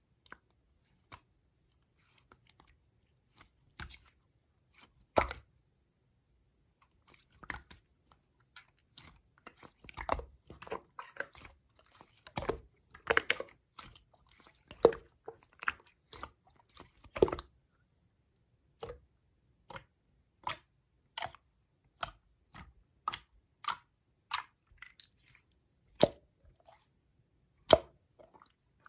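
Slime being pressed and poked by hand, giving crisp clicking and popping sounds. They come in dense, irregular clusters through the middle, then settle into single pops about every three-quarters of a second.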